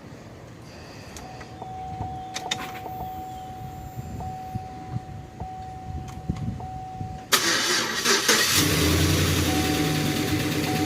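The 2005 GMC Envoy XL Denali's 5.3 L V8 is cranked by the starter for about a second, then catches and settles into an idle. The starting is a little weak, which the owner puts down to a battery that needs replacing or soon will.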